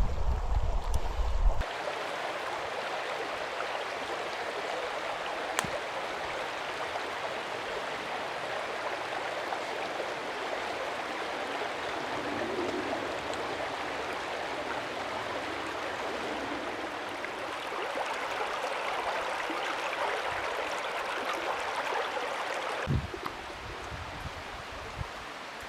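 A mountain stream flowing steadily, a constant rush of water. Wind buffets the microphone for the first second and a half; about 23 seconds in, the rush drops to a quieter level with a few low thumps.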